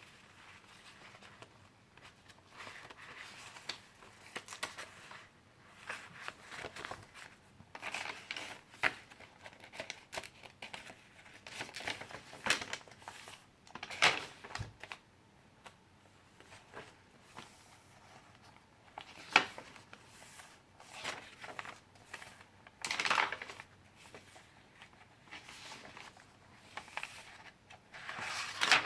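Paper pages of handmade junk journals being turned and handled, with irregular rustling and crinkling and a few short taps.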